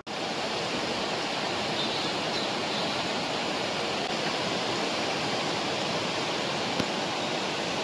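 Steady rain pouring down, an even hiss.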